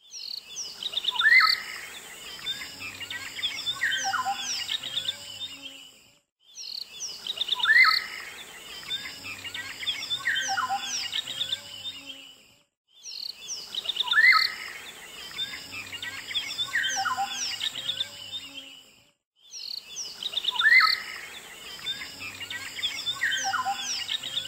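Birds chirping and calling: many short chirps and rising and falling whistled notes, in a stretch of about six seconds that repeats four times over with a short break between.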